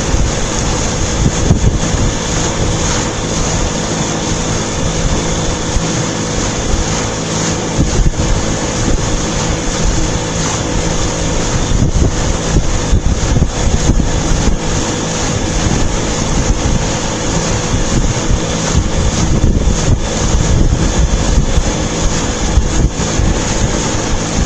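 Boat under way: the engine's steady hum under loud wind rush, with gusts buffeting the microphone.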